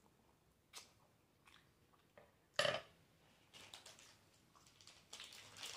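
Close-up eating mouth sounds while chewing instant noodles: small wet smacks and clicks, with one much louder mouth noise about two and a half seconds in. Near the end comes scattered rustling.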